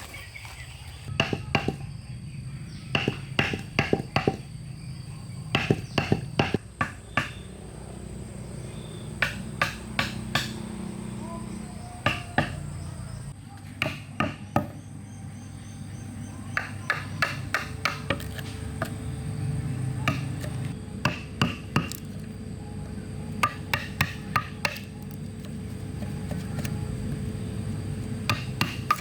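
Hammer blows on wood in short runs of two to five quick knocks, repeated throughout, over a steady low hum.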